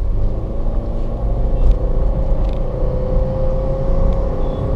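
Honda BR-V's 1.5-litre petrol four-cylinder at full throttle through its CVT in sport mode, heard from inside the cabin: a loud, steady engine drone whose pitch climbs only slowly as the car gathers speed. The driver takes the noise for the sign of an underpowered engine straining.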